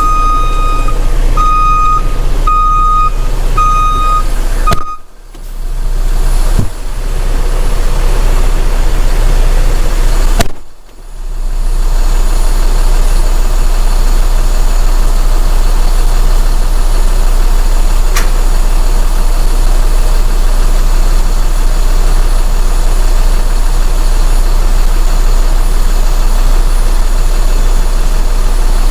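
Semi truck's diesel engine running steadily, with a reversing alarm beeping repeatedly for about the first five seconds while the truck backs up. The sound briefly drops out twice, then only the engine continues.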